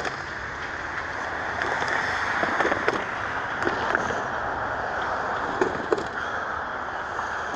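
CN freight train rolling along the track: a steady rumble and rush with scattered irregular clanks and knocks from the wheels and cars.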